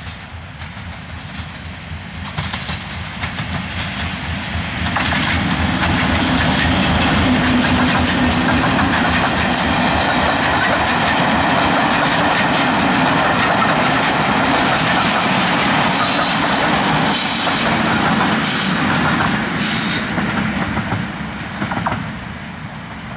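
Diesel locomotive and its train passing, engine running and wheels clattering on the rails. It grows loud about five seconds in, stays loud, and fades over the last few seconds.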